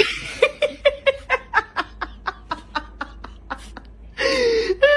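A person laughing: a quick run of short bursts, about four or five a second, that fades, then a longer, louder burst about four seconds in.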